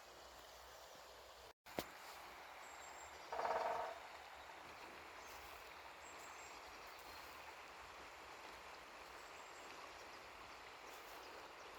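Faint, steady outdoor hiss from a misty forest. About three and a half seconds in, a single short harsh animal call with several tones cuts through, and faint high chirps follow.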